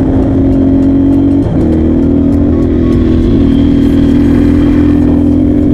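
A 250 cc dirt bike engine running at a steady pitch while riding, with a brief break in its tone about a second and a half in.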